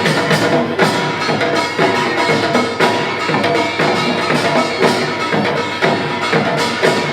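Korean pungmul percussion ensemble playing a fast, driving rhythm, with dense drum and gong strokes and a ringing metallic tone held over them.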